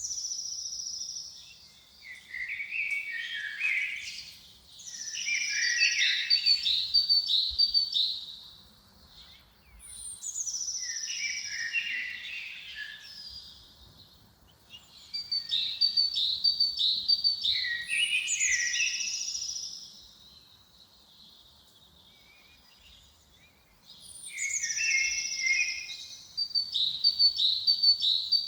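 A songbird singing the same short phrase over and over, with pauses of a few seconds between phrases. Each phrase opens with a high falling whistle and runs into quick rapid notes, and there is a longer quiet gap about two-thirds of the way through.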